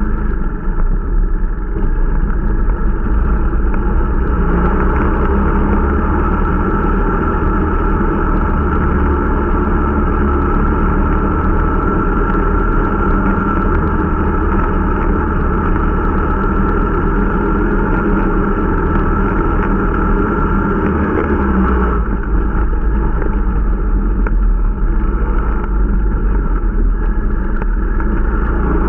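Irbis Dingo T125 snowmobile's small single-cylinder four-stroke engine running steadily under way during its break-in ride. A high whine in the engine note eases about 22 seconds in.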